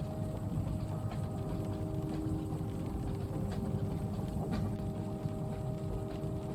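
Inside a moving train carriage: a steady low rumble of the train running, with a faint steady hum and scattered light taps of rain on the window, two of them a little sharper about halfway through.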